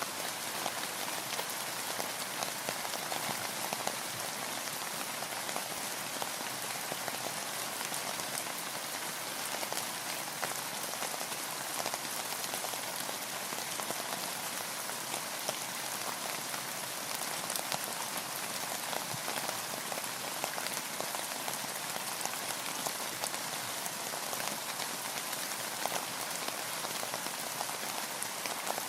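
Steady rain, an even hiss dotted with many separate drop strikes, with no change in strength throughout.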